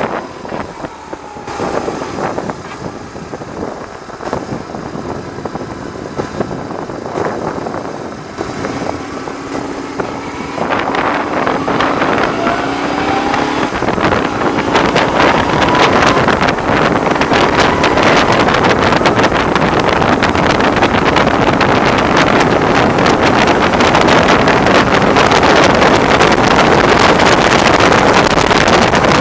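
BMW R1100R's boxer twin engine running on the road, its note rising as the bike accelerates from about ten seconds in. Rushing wind noise on the microphone then grows louder with speed until it covers most of the sound.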